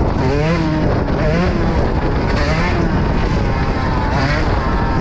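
Yamaha YZ125 two-stroke single-cylinder dirt bike engine being ridden, its pitch climbing and dropping several times as the throttle is worked.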